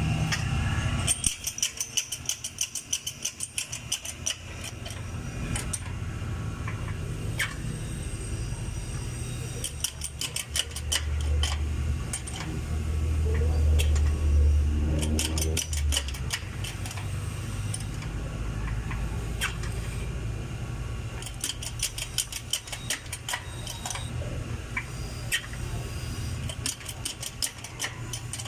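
Wheel-straightening work on a bent motorcycle alloy wheel: bursts of rapid metallic clicking over a low machine hum, which swells for several seconds midway with a rising tone.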